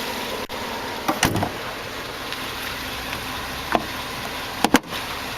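Hummer H2's hood being lowered and shut: a knock about a second in, a light click, then a sharp double clunk near the end as the hood latches, over a steady background hum.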